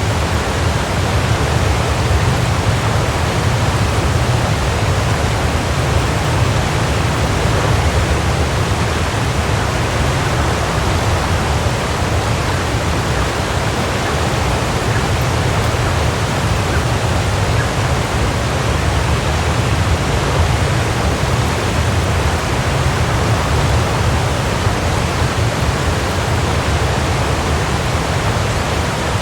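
Waterfall: a steady rush of falling water, deep and even, with no breaks.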